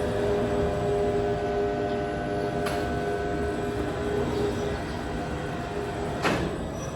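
Heavy sawmill machinery running, a steady rumble with a whining hum that fades in the second half. A faint click comes a little under three seconds in and a sharp knock comes about six seconds in.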